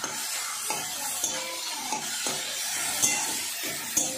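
Chopped onions and catla fish fat sizzling in a nonstick wok while a spatula stirs and scrapes through them, with about half a dozen sharp knocks of the spatula against the pan.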